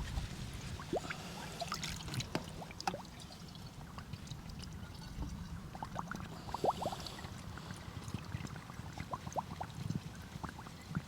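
Water being poured into a container, gurgling, with short rising bubbly glugs now and then.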